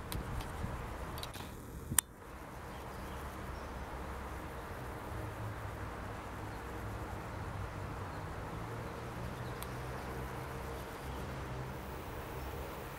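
Electric passenger train approaching from a distance: a faint low hum and rumble over steady outdoor background noise, strongest through the middle. A single sharp click about two seconds in.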